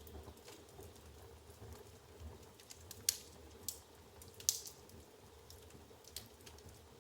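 Firewood burning in an open fireplace: irregular crackling with scattered sharp pops, the loudest about three seconds and four and a half seconds in, over a faint low rumble of the fire.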